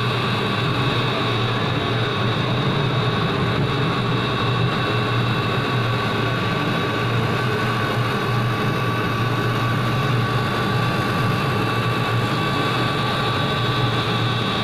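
CNC laser cutting machine running, a steady hum with a constant high whine over it.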